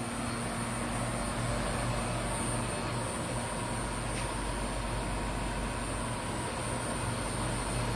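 Supertec G60A-80 CNC angle head cylindrical grinder running, its grinding wheel and workhead spindle turning: a steady machine hum with a faint even whine.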